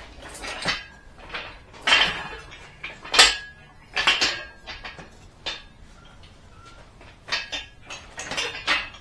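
Metal clanking and knocking as steel tools and engine parts are handled: a string of sharp hits, some with a short ring.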